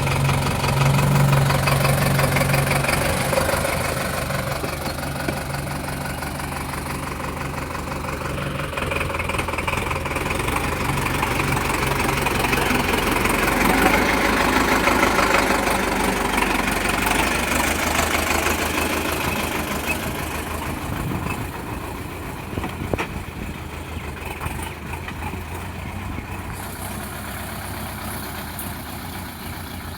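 Sonalika DI 750 tractor's diesel engine running steadily, swelling louder a couple of times and easing off near the end.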